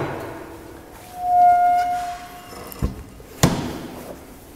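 A clear, steady whistle-like tone held for over a second, then two sharp knocks about half a second apart, in keeping with the door of a fireplace insert being swung shut and latched.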